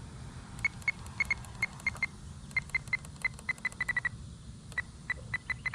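RC transmitter trim buttons beeping: a string of short, identical high beeps at about two or three a second, pausing briefly and then quickening into a fast run near the end, as the trim is stepped back toward center.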